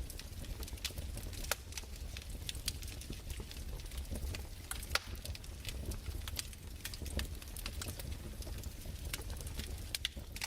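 Fireplace crackling: irregular sharp pops and snaps, several a second, over a low steady rumble.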